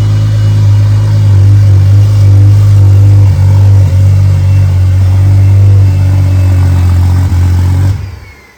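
Freshly rebuilt BMW N54 twin-turbo inline-six running loudly and steadily on its first start-up; the sound drops away sharply near the end.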